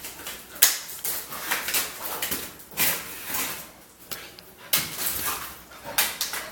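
A dog at play, scuffling and worrying a toy: a string of short, irregular noisy bursts, roughly two a second.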